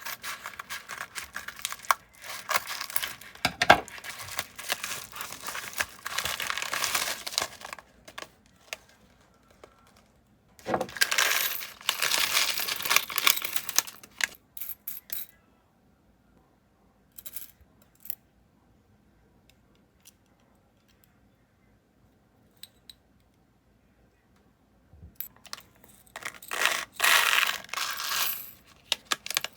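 Small hard pieces rattling and clinking against each other, in three spells of several seconds each with quiet pauses between.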